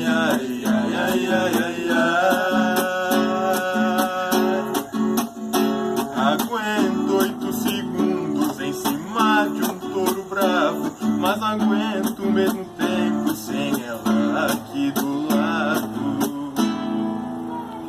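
Acoustic guitar strummed in a sertanejo song's instrumental ending, with a melody line played over the chords. The music stops about a second before the end, leaving a low hum.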